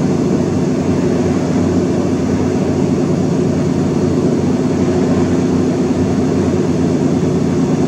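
A loud, steady machine hum with a rushing noise, unchanging throughout.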